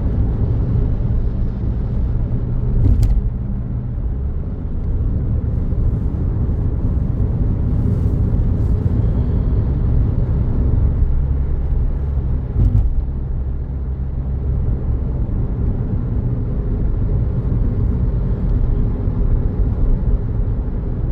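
Car interior: steady engine and road rumble while driving, with two brief knocks, about 3 seconds and about 13 seconds in.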